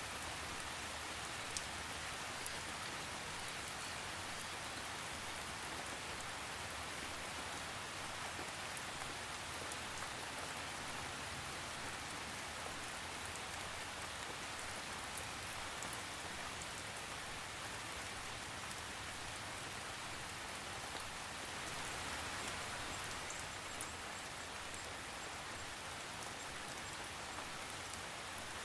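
Steady rain falling, a constant hiss with scattered faint drop ticks and no thunder.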